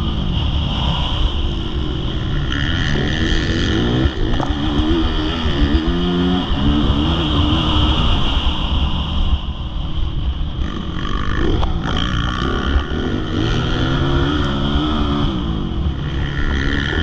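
Motocross bike engine being ridden hard, its pitch climbing and dropping again and again as the throttle opens and closes, over a steady low rumble.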